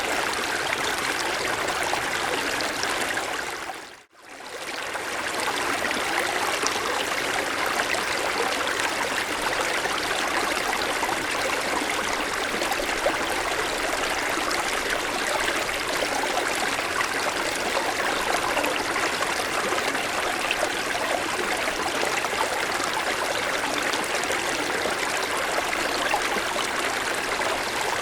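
Forest stream flowing in a steady rush of running water. About four seconds in, the sound fades out briefly and comes back.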